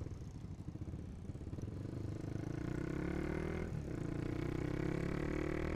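Honda CB150R's single-cylinder engine through a Proliner aftermarket exhaust with the dB killer fitted, riding along and rising in revs, with a short break near the middle before it climbs again.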